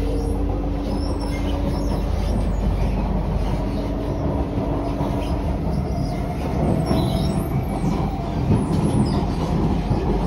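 Kawasaki–CSR Qingdao Sifang C151A electric train running, heard from inside the car: a steady rumble of wheels on the rails, with a faint whine that rises slowly in pitch.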